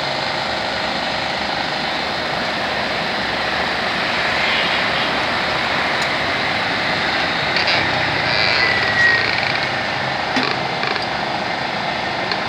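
Steady background noise with a few faint metallic clicks, as pliers grip and twist a seized, rusted brake caliper piston on a motorcycle.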